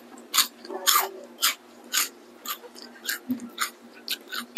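Close-up crunching of a person chewing a crisp, dry snack, about two crunches a second.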